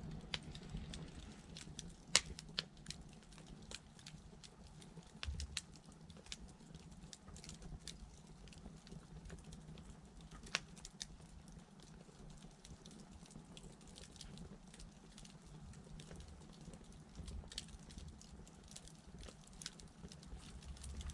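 Wood fire crackling: a wood candle of upright thin logs burning about 1 hour 45 minutes into its roughly two-hour burn, with irregular sharp pops over a low steady rumble.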